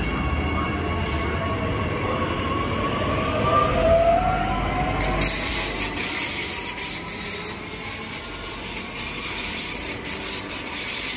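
Electric passenger train running past, a motor whine climbing in pitch over a low rumble, then from about five seconds in a high hissing and squealing of wheels on rail.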